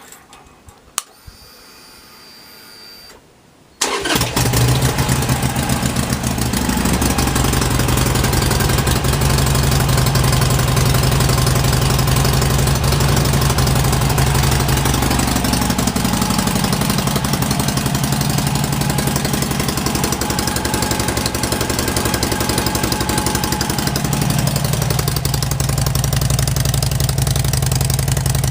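2012 Harley-Davidson Sportster Iron 883's 883 cc V-twin starting about four seconds in and then running at idle, its pitch rising a couple of times. The exhaust goes through the stock mufflers, each drilled with three quarter-inch holes.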